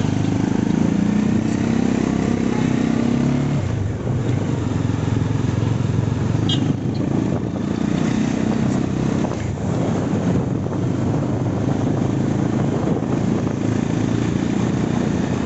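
Motorcycle engine running steadily while under way, its low note shifting about four seconds in.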